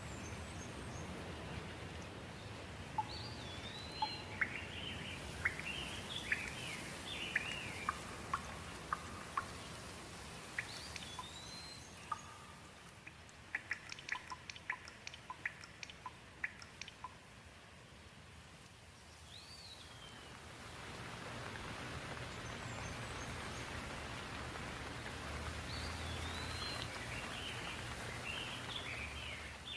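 Steady rain with small birds chirping over it in quick, rising-and-falling calls. A run of sharp ticks comes in the middle, and the rain dips lower before swelling up again about two-thirds of the way through.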